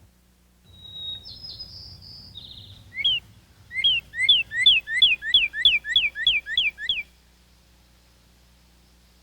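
A songbird singing: a few varied high whistled notes, then a rapid series of about ten repeated two-part slurred whistles, about three a second, that stops abruptly.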